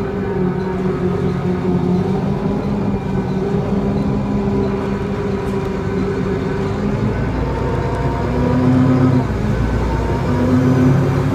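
Volvo B7L single-decker bus's diesel engine running under way, heard from on board; the engine note drops and picks up again a few times as the bus changes speed and gear.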